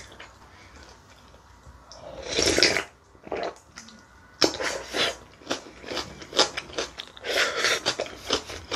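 A slurp from a spoonful of water kimchi (mul-kimchi) about two seconds in, then close-up crunchy chewing of its radish pieces, many short crunches in quick succession.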